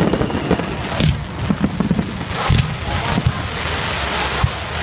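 Aerial fireworks shells going off in quick succession: many short booms over a dense, continuous crackling hiss from the burning stars.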